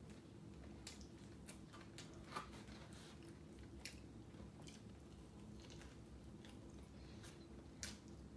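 A person chewing and biting crispy fried chicken, faint mouth sounds with a scattering of sharp crunchy clicks, the loudest about two and a half seconds in.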